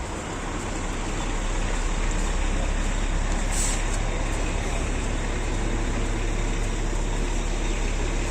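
City street traffic noise with a steady low engine rumble from a large vehicle close by, and one short hiss about three and a half seconds in.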